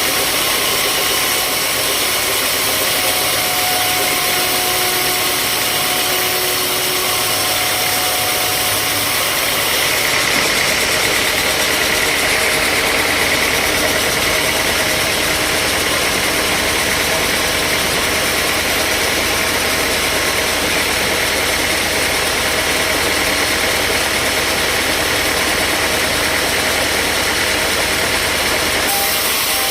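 Sawmill machinery running steadily with a mechanical, engine-like hum. The sound changes abruptly about ten seconds in, when a low hum joins, and changes again near the end.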